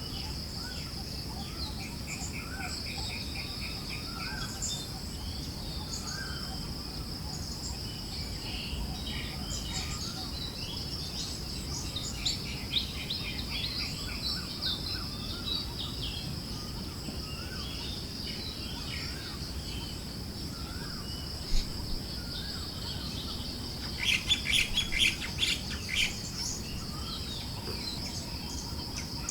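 Forest birds chirping and calling at intervals over a steady high-pitched insect drone and a soft low hiss of wind. A burst of rapid chirping comes near the end.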